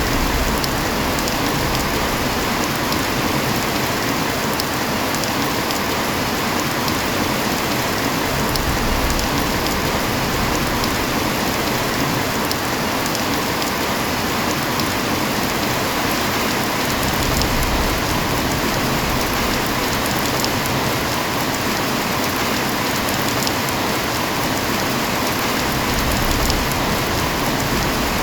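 Heavy rain falling steadily, a dense even hiss with fine patter of individual drops.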